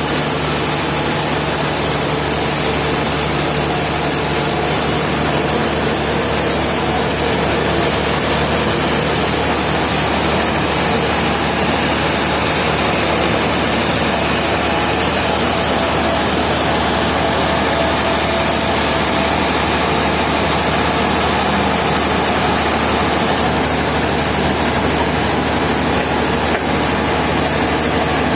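An engine running steadily at a constant speed, with a low hum that does not change.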